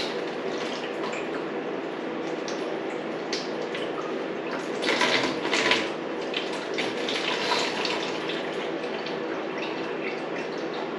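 Engine coolant draining from the water-pump drain of a Honda CRF450R engine, running and dripping steadily into a catch container, with a louder moment about five seconds in.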